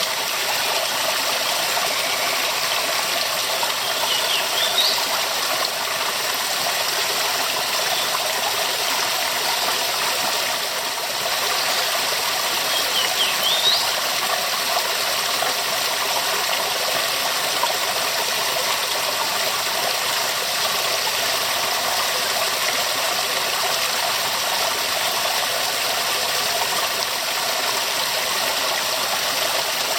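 Waterfall: falling water rushing steadily, a dense, even hiss with no break. A couple of faint short high chirps rise above it about four and thirteen seconds in.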